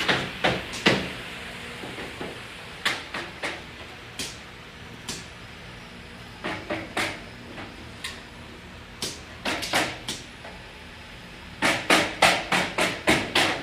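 Sharp knocks, like hammering or tapping on a hard surface, over a low steady hum. They come irregularly and sparsely at first, then in a fast run of about three a second near the end.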